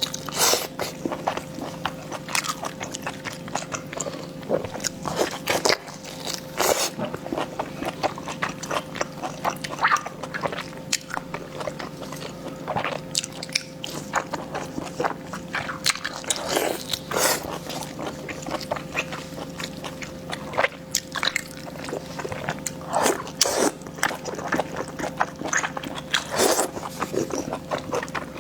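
Close-miked eating: chewing with wet mouth clicks and smacks, coming irregularly several times a second, over a faint steady hum.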